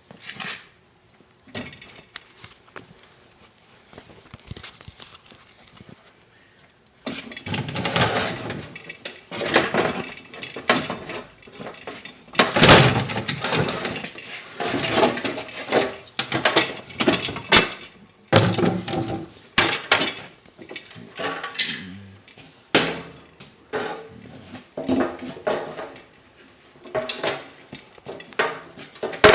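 Irregular clanks, knocks and scraping of metal parts and hand tools being handled. They start about seven seconds in, after a quiet stretch with a few faint clicks.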